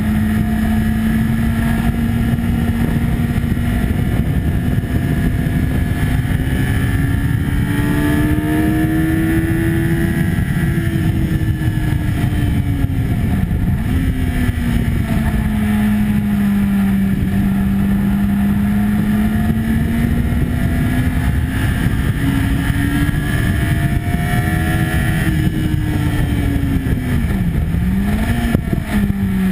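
Sport motorcycle engine at high revs on track, its pitch climbing and falling with the throttle and twice dropping sharply and recovering, over loud wind rush.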